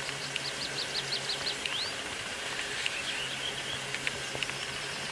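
A songbird singing outdoors: a quick run of about eight short, high, falling notes ending in one rising note, followed a second or so later by a few softer chirps. Underneath is a steady background hiss and a faint low hum.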